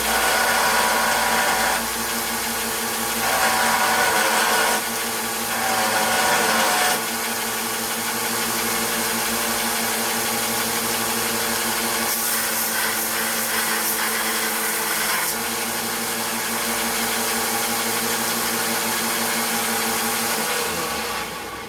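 Electric bench power tool running steadily while the steel spine of a meat cleaver is worked against it, the grinding louder in three short passes in the first few seconds. The motor winds down near the end.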